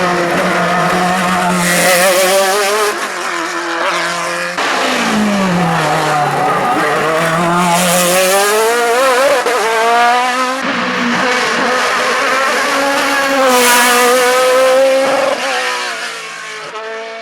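Racing car engines revving hard, pitch climbing and dropping with gear changes, in three short clips cut together about every five or six seconds.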